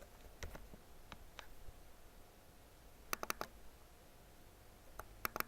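Faint sharp clicks over a quiet room: a few single clicks in the first second and a half, then quick runs of two or three clicks about three seconds in and again near the end.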